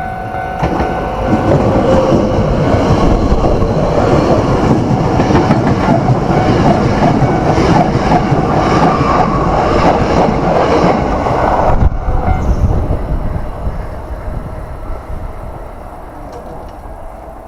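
An electric train passes close by, its wheels clattering in a rhythm over the rail joints. The sound builds about a second in, stays loud for about ten seconds, drops off sharply and fades away.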